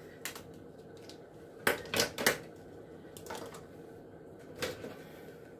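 Measuring cup and spoons clicking and clattering as they are handled, with a quick cluster of three knocks about two seconds in and a few lighter clicks either side.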